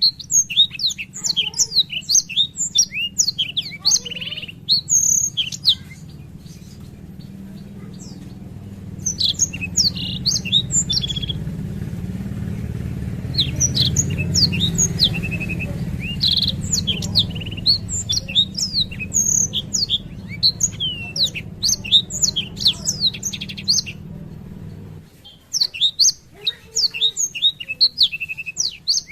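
Blackthroat (black-throated canary) singing long runs of rapid, high twittering trills, broken by a few short pauses. A steady low hum sits underneath and cuts off suddenly near the end.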